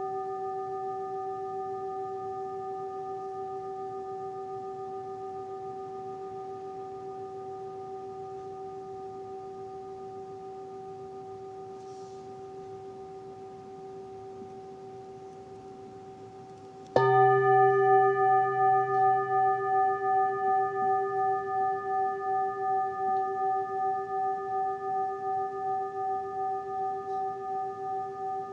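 A singing bowl ringing and slowly fading, then struck again a little past halfway and ringing out loud with a tone that wavers about once a second as it decays.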